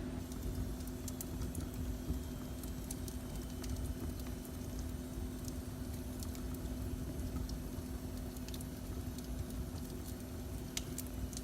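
Wood fire burning in a fireplace: scattered sharp crackles and pops over a steady low rumble and a constant hum.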